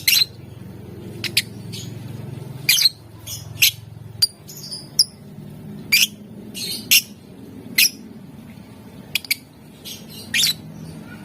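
Lovebird giving short, shrill, sharp chirps at irregular intervals, about a dozen in all. These are the provoking calls used to get other lovebirds calling.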